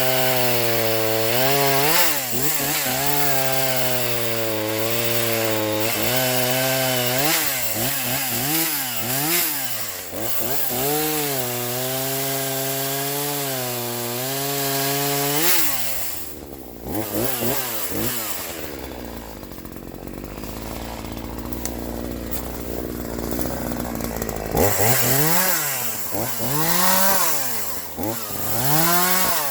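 Troy-Bilt TB4218 42 cc two-stroke chainsaw running hard, its pitch repeatedly rising and dipping as it cuts wood. About halfway through it drops to a low idle for several seconds, then is revved up and down again near the end.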